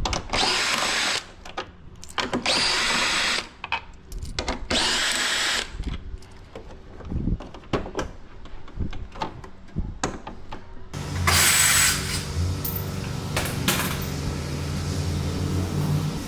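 Power drill run in three bursts of a second or two each, driving fasteners out of a car's front bumper, followed by scattered clicks and taps. About eleven seconds in, a steady low hum with hiss takes over.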